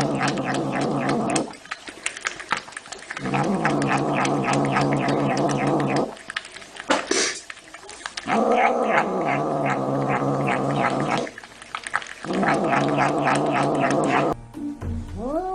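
A cat yowling in long, low, drawn-out howls: four of them, each about two to three seconds at a steady pitch, with short crackly gaps between.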